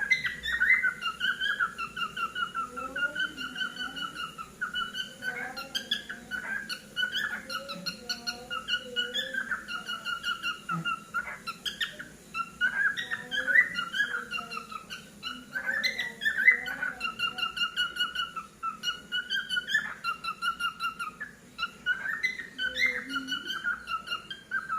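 Cockatiel whistling and warbling: held whistled notes that waver in pitch, broken up by quick chirps and little clicks.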